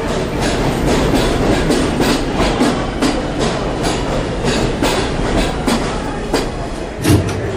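Subway train running along the track: a steady rumble with wheels clacking over rail joints, and a heavier clunk near the end.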